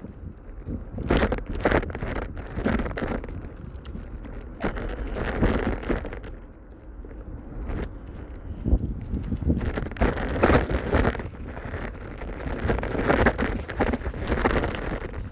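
Wind buffeting a microphone carried on a moving bicycle, rising and falling in irregular gusts over a low rumble of road noise.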